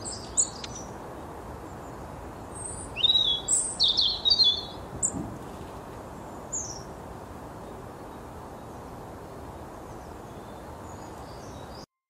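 Small bird chirping in short high notes, with a quick flurry of calls about three seconds in and a few scattered chirps after, over steady outdoor background noise; the sound cuts off abruptly just before the end.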